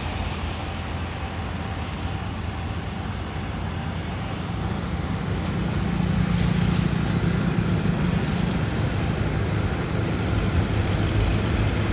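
Tractor engine running steadily, growing louder about halfway through.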